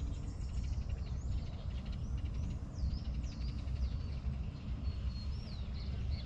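Birds calling with a run of short, curving chirps, most of them in the middle stretch, over a steady low rumble.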